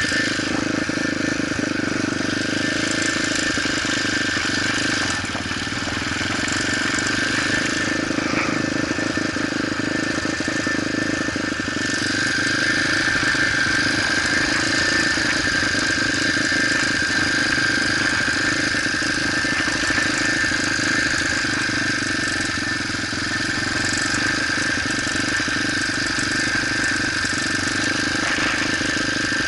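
Motorcycle engine running steadily, with a steady high whine over it.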